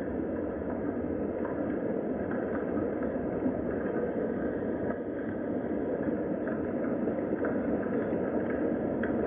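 Steady rain ambience, a dense even rumble with faint scattered drop ticks.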